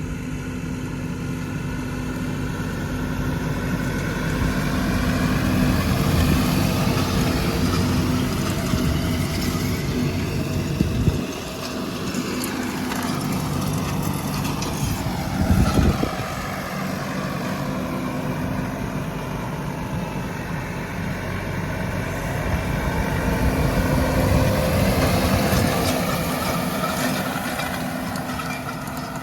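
New Holland T5.90 tractor engine running steadily while working with a rotary hay rake, swelling and easing in loudness as it moves about. Two short knocks sound about a third and halfway through.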